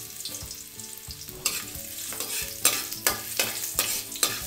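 Diced potatoes sizzling in hot cooking oil in a metal wok. From about a second and a half in, a metal spoon stirs them, with several sharp scrapes and knocks against the pan.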